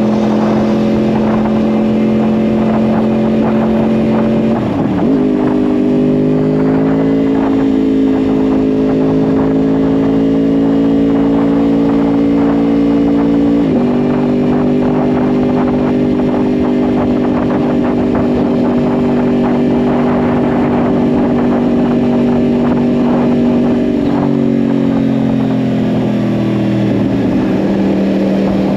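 2010 Yamaha R1's crossplane inline-four through a Yoshimura exhaust, running under way at fairly steady revs. The pitch dips and changes about five seconds in, steps again near halfway, and falls away over the last few seconds as the revs drop.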